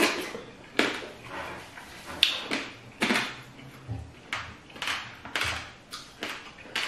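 Wet eating sounds of fufu with sticky okra soup being eaten by hand: a run of irregular smacks and clicks from chewing and lips, about one or two a second.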